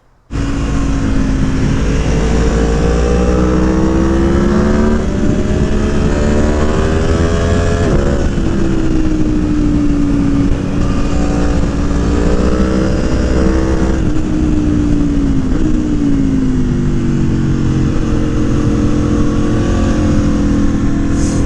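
Aprilia Tuono Factory motorcycle engine, fitted with a Gabro Racing Stage 3 engine kit, pulling under way. Its pitch climbs steadily, drops sharply at a gear change about 8 seconds in and again around 14 seconds, then falls away as the rider rolls off.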